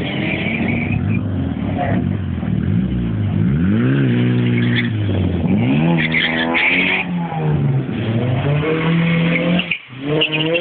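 Honda Civic EK9's engine revving hard on a drag-strip launch, its pitch climbing and dropping back several times through the gear shifts. A tire squeal fades out in the first second.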